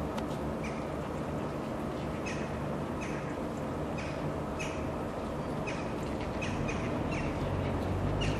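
Birds chirping, short high calls about one or two a second, over a steady low rumble.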